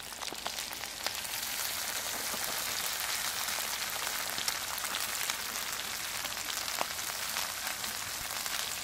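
Hash browns sizzling in rendered ribeye fat in a hot pan: a steady hiss with scattered small pops.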